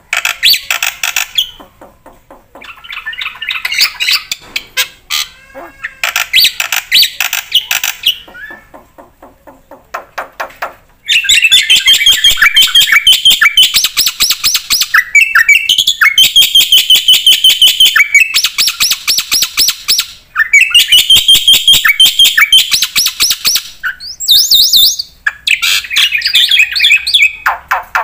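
Black-winged myna (jalak putih) singing vigorously, a song packed with mimicked phrases: loud runs of rapid repeated chattering notes and high whistles. The bouts are short with pauses at first, then the song runs almost unbroken from about eleven seconds in.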